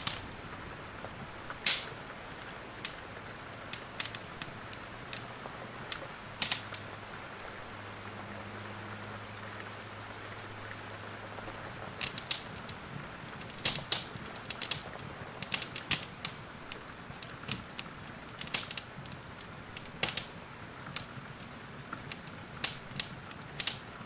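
Wood fire crackling in a fireplace, with irregular sharp pops and snaps that come more often in the second half, over a steady hiss of rain. A faint low hum sounds for several seconds in the first half.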